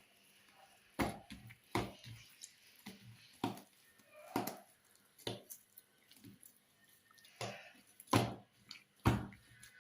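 Oiled hands working soft msemen dough: an irregular series of short, wet slaps and squelches.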